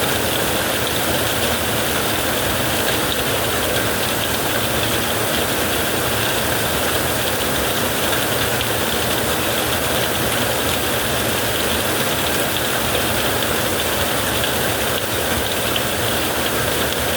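Heavy rain falling steadily on a tent, an even, unbroken hiss with no thunder rolls or separate impacts.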